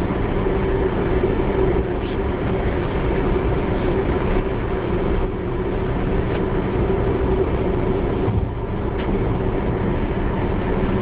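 Steady car running noise heard from inside the cabin, a constant low drone with road rumble underneath.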